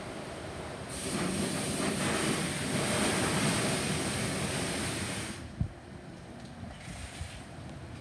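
Automatic car wash water jets spraying over the car with machinery rumble. The spray swells about a second in and cuts off about five seconds in, followed by a single knock.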